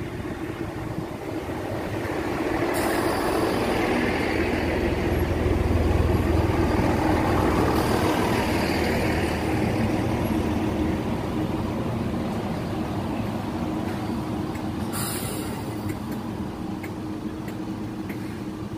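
GWR diesel multiple unit running into the platform and slowing: underfloor diesel engines and wheels on the rails grow louder to a peak about six seconds in as the front passes, then ease off. Three brief high hisses of air come about three, eight and fifteen seconds in.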